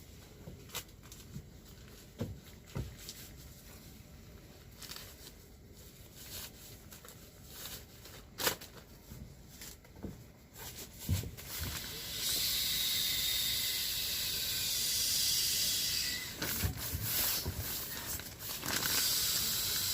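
Scattered clicks and knocks, then about twelve seconds in a loud hiss starts: food sizzling in hot oil in a pan, with crackles running through it near the end.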